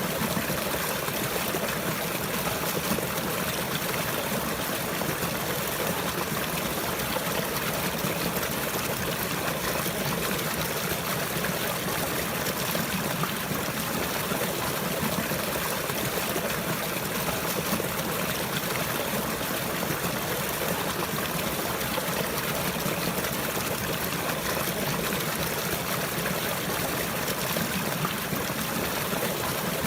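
Running water flowing steadily, with an even stream-like trickle and no breaks or changes.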